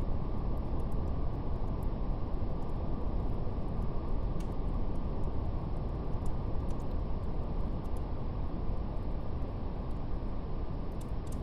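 Steady brown noise, strongest in the low end and cut off sharply above the lower midrange, with faint scattered crackles of a wood fire.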